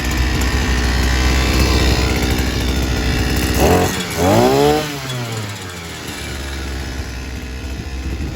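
Sican 3.5 HP 52cc two-stroke outboard engine running, revved up once about four seconds in and then dropping back to a steady idle.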